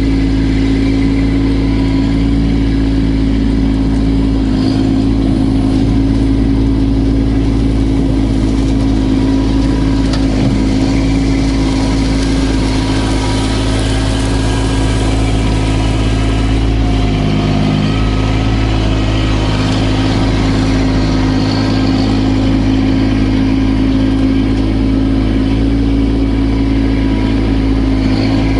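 Kubota B2650 tractor's three-cylinder diesel engine running steadily at constant speed, with a brief change in tone about seventeen seconds in.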